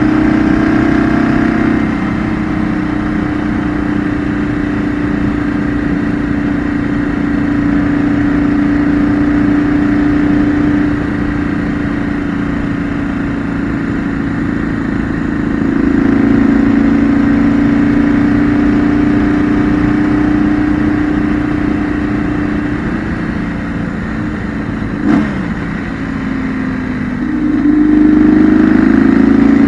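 2008 BMW R1200GS's air/oil-cooled boxer twin heard from on board while riding, its steady note swelling under throttle and easing off several times, loudest in the middle and again near the end. A short sharp noise cuts in about 25 seconds in.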